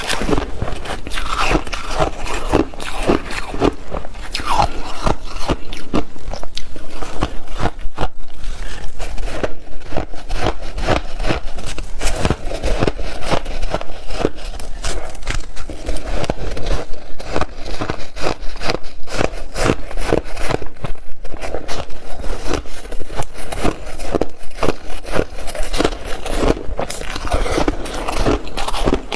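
Ice being bitten and chewed: a steady run of crisp crunches and scraping, several a second.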